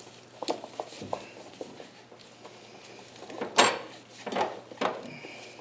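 Handling clatter from hand tools and engine-bay parts: several light clicks, then three louder knocks in the second half.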